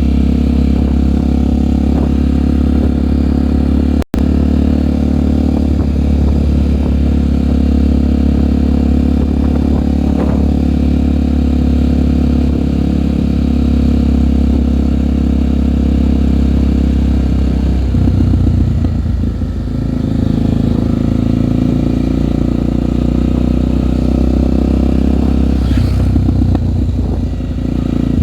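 Single-cylinder Honda trail bike engine running steadily while riding, with the engine note easing and picking up again about two-thirds of the way through. The sound cuts out for an instant about four seconds in.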